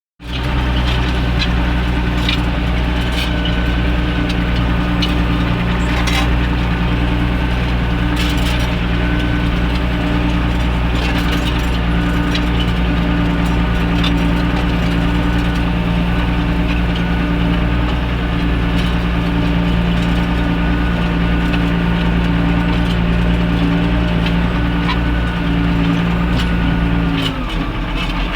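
Tractor diesel engine running steadily under load while ploughing. Near the end its pitch drops as the revs fall.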